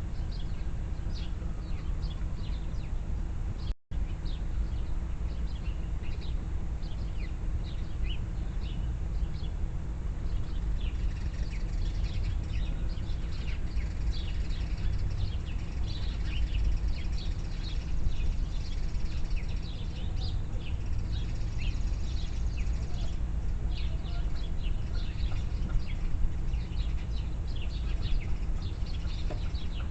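Many small birds chirping and calling in quick, overlapping short notes over a steady low rumble, with a brief break in the sound about four seconds in.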